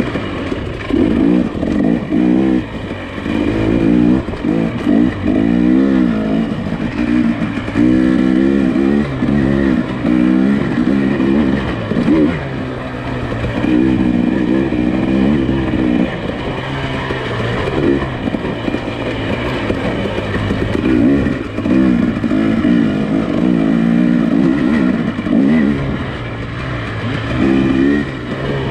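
Nissan Pathfinder SUV engine working over a rough off-road trail, its revs rising and falling in repeated surges every few seconds over a steady low drone.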